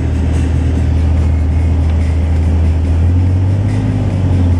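Chevy 4x4 pickup's engine running steadily under load as the truck works through snow, heard from inside the cab, its low drone shifting slightly about three seconds in.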